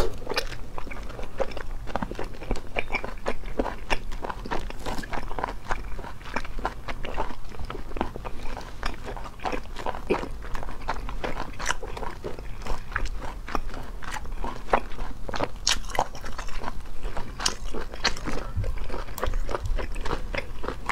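Close-miked chewing of cooked freshwater snail meat, with many irregular wet mouth clicks. The snail shells click and scrape as a toothpick prises the meat out.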